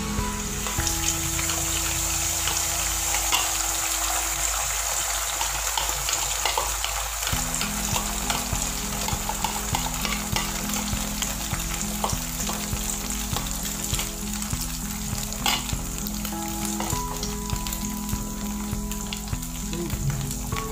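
Beaten egg mixture poured into hot oil in a frying pan, sizzling from the moment it lands and frying with a steady sizzle as the omelet sets.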